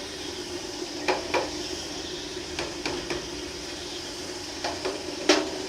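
Lathe running steadily with a hissing, humming drone while boring out a Bajaj CT-100 motorcycle cylinder block, with several sharp metallic clicks and knocks at irregular intervals, the loudest near the end.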